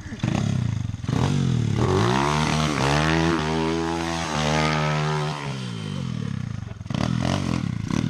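Small pit bike engine running, revving up hard about two seconds in, holding high for a couple of seconds, then dropping back as the throttle is let off.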